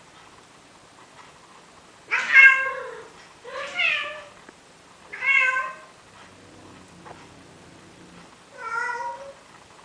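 Male cat's courtship meows: four drawn-out calls, the first the loudest and the last after a pause of a few seconds, as he begs a female to mate.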